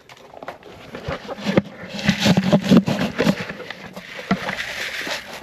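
Chickens crowding close and clucking briefly, amid scraping, crunching steps and a run of sharp clicks and knocks.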